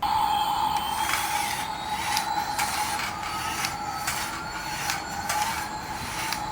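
Small electric toy motor whirring steadily through plastic gears, with scattered clicks.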